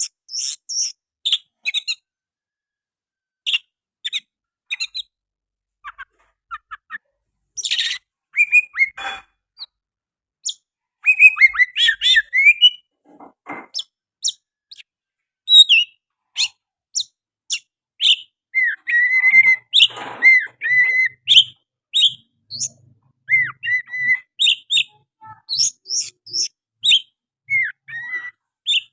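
Oriental magpie-robin singing hard: a fast stream of short chirps, whistles and quick gliding notes with a brief pause early on, its song filled in with mimicked sooty-headed bulbul phrases.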